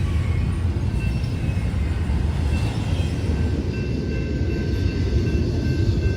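A long CSX intermodal freight train rolling past: a steady rumble of wheels on rail, with faint high tones coming and going.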